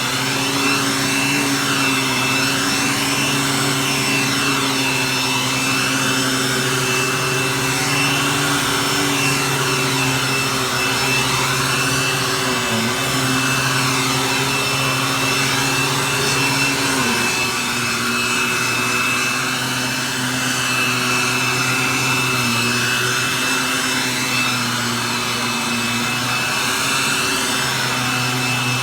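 Hoover vacuum cleaner running steadily, a motor hum with a thin high whine over a wavering rush of air, its pitch dipping briefly a couple of times.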